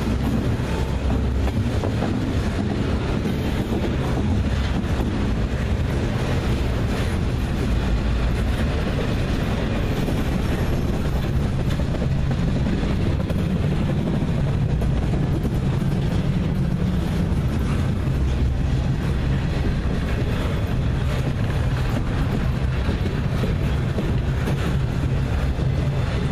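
Norfolk Southern double-stack intermodal train's loaded well cars rolling past close by: a steady, unbroken rumble of steel wheels on rail.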